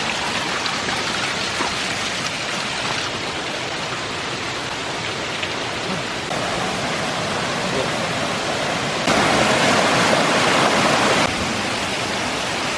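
Waterfall running full after heavy rain: a steady rush of falling water, louder for about two seconds in the second half.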